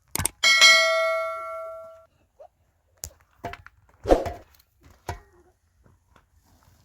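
A metal object struck once, ringing with several clear tones that die away over about a second and a half, followed by a few short knocks.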